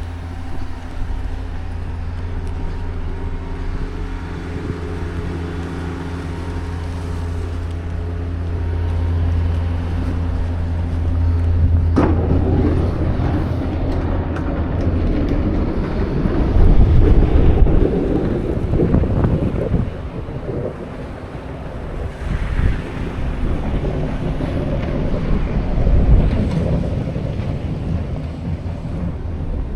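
Wind buffeting the microphone over a steady low engine hum. A sharp knock about twelve seconds in, after which gusty wind rumble takes over, loudest a little past halfway.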